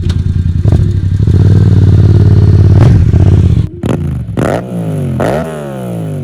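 2016 Yamaha FZ-07's parallel-twin engine revving through an Akrapovic exhaust. It holds high revs for a few seconds, then after a sudden break gives two quick throttle blips, each rising in pitch and falling back.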